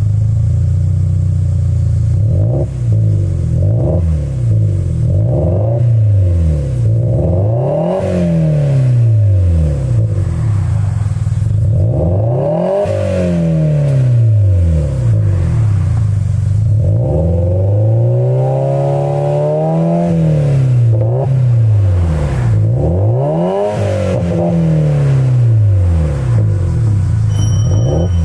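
Subaru WRX STI's EJ20 turbocharged flat-four with a TRUST GReddy Power Extreme R aftermarket exhaust, free-revved while stationary: repeated throttle blips rising and falling back to idle, with one longer held rev about two-thirds of the way through.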